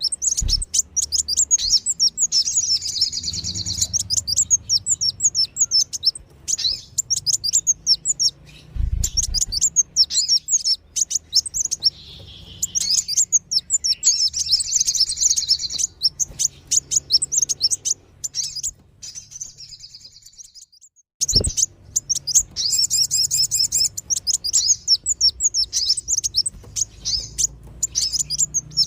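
Sunbird lure calls: rapid streams of thin, high-pitched chirps in repeated bursts of several seconds with short gaps, and a few dull low thumps.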